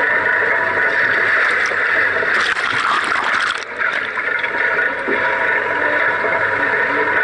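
River water rushing and splashing as a Land Rover Defender fords a river, with a louder surge of splashing from about two and a half seconds in that lasts about a second.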